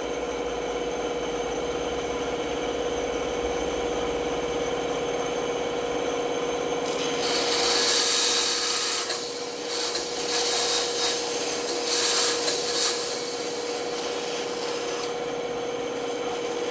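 Band saw running with a steady hum. About seven seconds in, the blade cuts into wood in several short stretches over about six seconds, then it runs free again.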